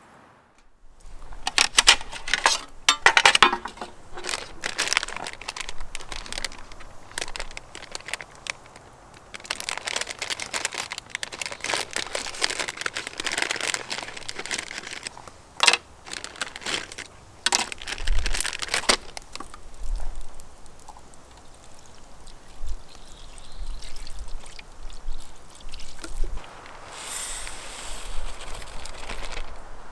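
Hands preparing food: a string of clicks and knocks with rustling and crinkling, and a steady pouring hiss near the end.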